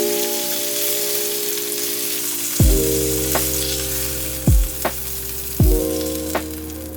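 Food sizzling as it cooks, a steady hiss that fades toward the end. Over it, background music with held chords and a low bass hit about every one to two seconds.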